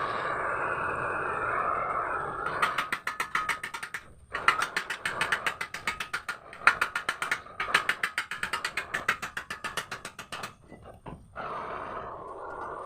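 A ratchet mechanism clicking rapidly, about ten clicks a second, in runs of a few seconds with short breaks. A steady noisy sound comes before the clicking starts.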